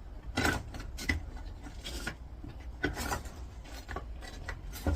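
Handling noises: a handful of brief rustles and light knocks, spread out about a second apart, as small scrap-metal pieces are moved about.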